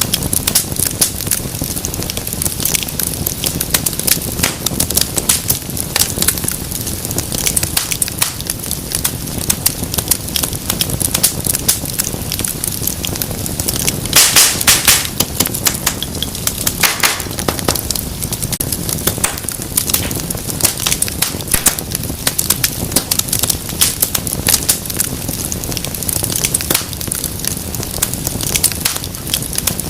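Wood fire in a fireplace crackling, with dense rapid snaps over a low rumble of burning, and a louder cluster of pops about halfway through and another shortly after.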